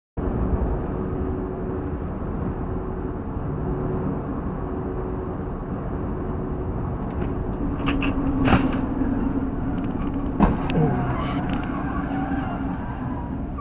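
Car on the road: steady engine and road rumble with a droning tone, broken by a sharp bang about eight and a half seconds in and another about two seconds later.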